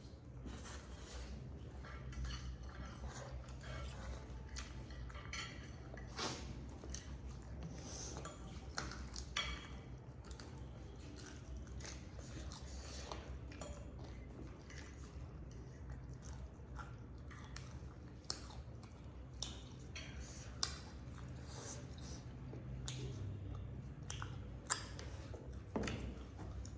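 People eating noodles, chicken wings and sausages: chewing, biting and slurping with scattered clicks of cutlery against dishes, over a steady low hum.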